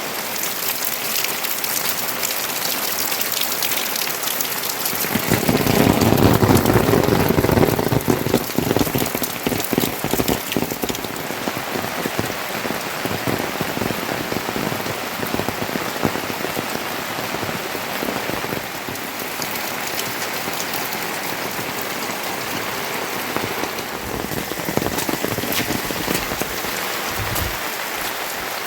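Steady rain falling, a dense patter of drops; it swells louder and heavier for a few seconds about five seconds in, then settles back.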